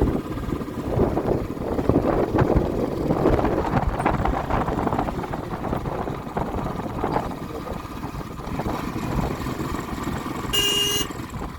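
Motorcycle engine running on the move, with rough wind and road noise. A short high beep sounds near the end.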